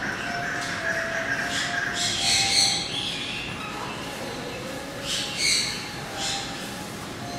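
Shrill squawking calls of birds, several short calls a few seconds apart, over a background of faint steady tones.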